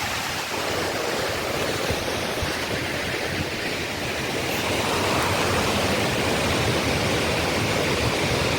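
Strong gusty wind rushing and buffeting across the microphone, a steady noise with a low rumble that grows louder about halfway through.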